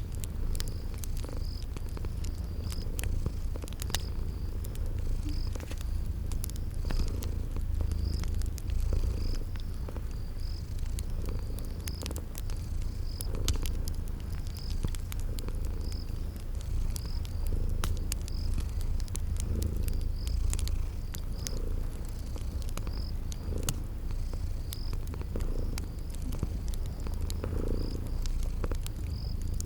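Cat purring steadily in a deep low rumble. A wood fire crackles with scattered sharp pops, and crickets chirp in a regular high pulse about once a second.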